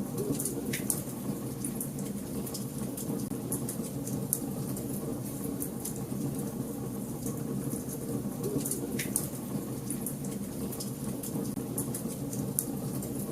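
Wood fire burning in a fireplace: a steady low rumble of flames with scattered crackles and pops, a couple of sharper snaps about a second in and again near the end.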